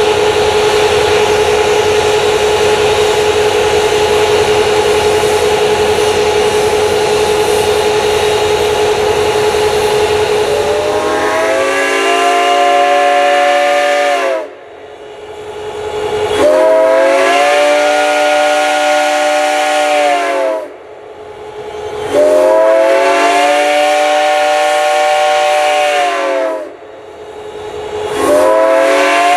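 Southern Railway six-chime steam whistle on Reading & Northern 4-6-2 No. 425, blown in long chord blasts: three of about four seconds each with short gaps, and a fourth starting near the end, the pitch sliding up as each opens and sagging as it closes. Before the first blast there is a loud, steady hiss of steam with a faint held tone.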